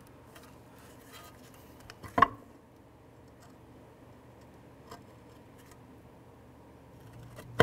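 Metal parts handled on a bench: a new wheel hub bearing assembly shifted against its parking brake assembly to line up the bolt holes. There are faint small clicks, a sharp clunk about two seconds in and another at the very end.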